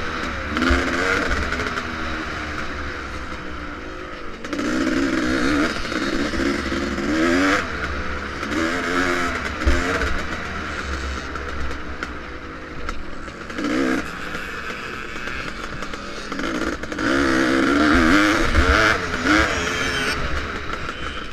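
Vintage motocross motorcycle engine racing, its pitch climbing and dropping over and over as the throttle is opened and shut through the course.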